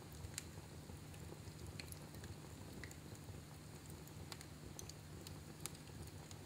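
Fire crackling in a fireplace: scattered sharp pops and snaps over a faint, steady low rumble.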